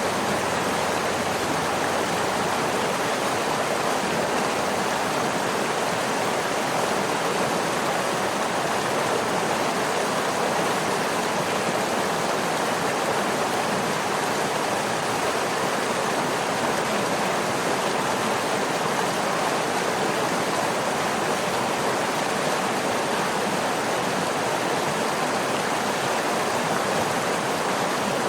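Waterfall: a steady, unbroken rush of falling water with no separate splashes or changes.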